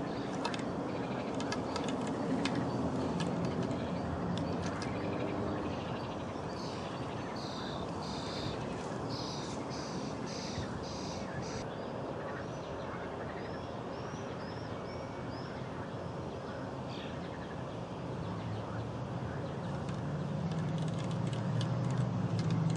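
Birds calling over a steady outdoor background hiss, with a run of short, quickly repeated high chirps in the middle and a few single chirps after them. A low rumble swells near the end.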